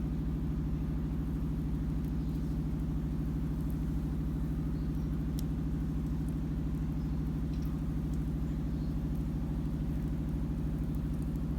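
A steady low mechanical hum, like an engine running at idle, unchanged throughout, with a few faint clicks scattered over it.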